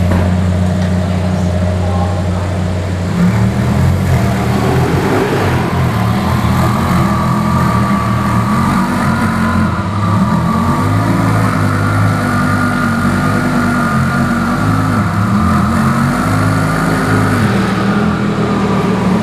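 Twin-turbo Audi R8 engine idling steadily, then its pitch rising and falling gently from about three seconds in, as in light throttle or slow driving.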